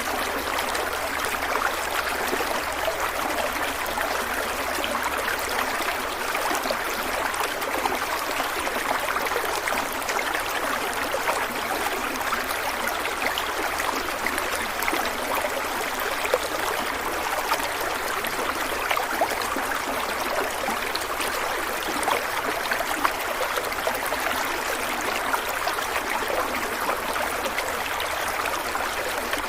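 Stream water flowing and trickling steadily, with a dense splashing and bubbling texture and no change in level.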